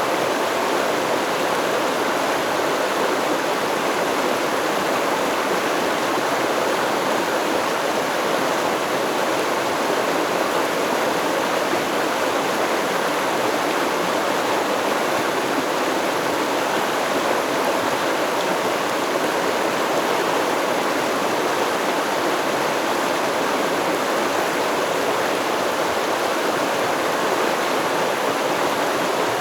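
Stream water flowing and babbling over rocks, a steady rushing with no breaks.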